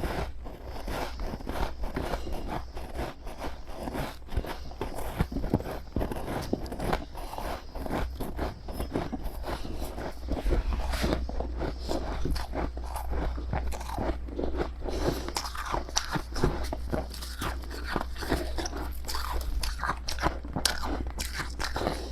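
Freezer frost ice being bitten and chewed close to the microphone: a dense, irregular run of crisp, powdery crunches.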